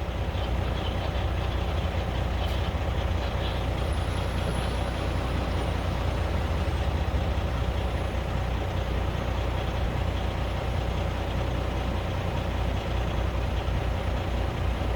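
Heavy diesel engines of an excavator and a loaded dump truck running hard under load, a steady low rumble, as the excavator pushes the truck, stuck in mud, with the back of its bucket.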